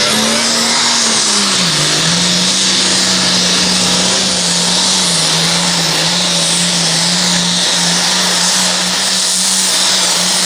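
Super Farm class pulling tractor's turbocharged diesel engine running flat out under load while pulling the weight-transfer sled. Its note dips briefly about a second and a half in, then holds steady.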